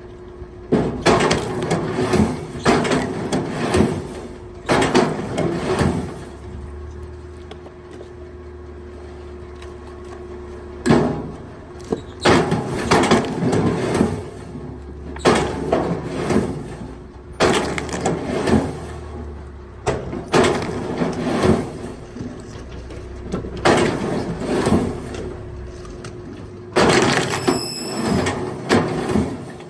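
Firewood knocking and cracking in a string of irregular loud crashes one to three seconds apart, over a steady motor hum.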